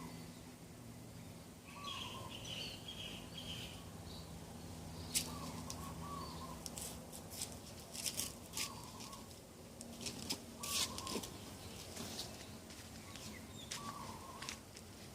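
Birds calling in the open: a short, low warbled call repeated about every two seconds, higher chirps early on, and a run of sharp clicks through the middle.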